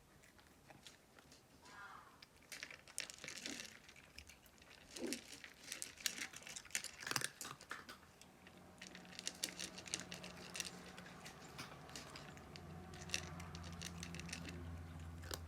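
Cats crunching dry kibble: faint, irregular crisp crunches and clicks, coming in quick clusters. A low steady hum comes in about halfway through.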